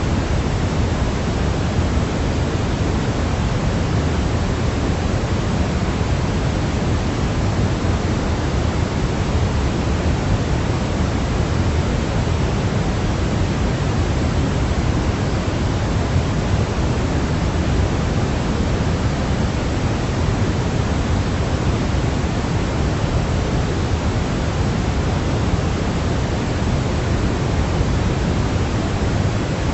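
Steady, unchanging noise played as a baby sleep aid, heavier in the low end than the top, like pink noise.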